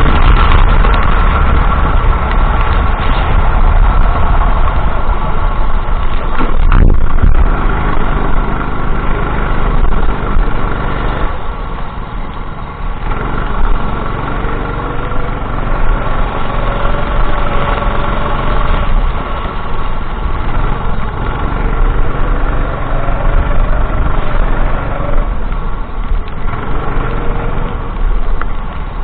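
Racing kart engine running hard on track, its pitch rising and falling as it accelerates and backs off through corners, with a brief quieter lift about twelve seconds in.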